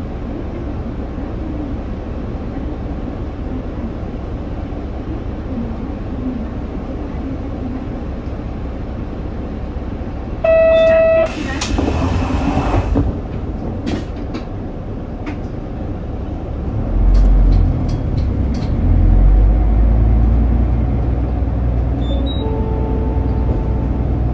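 Diesel route bus heard from inside the cabin: steady engine and road noise. About ten seconds in comes a short beep, followed by a hiss of air lasting a couple of seconds. From about 17 seconds the low engine rumble grows louder.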